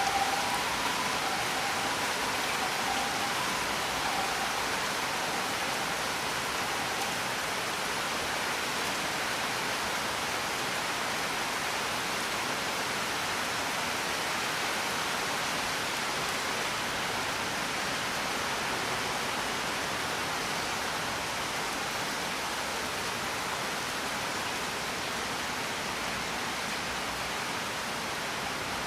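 Steady, even rain falling. A couple of faint high tones fade out in the first few seconds.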